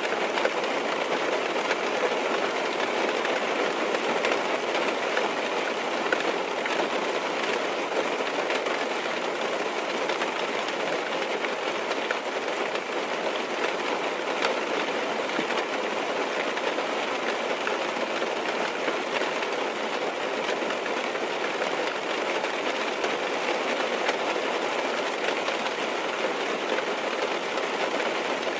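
Steady rain falling on a car's roof and windows, heard from inside the car: an even patter of many small drop ticks with no let-up.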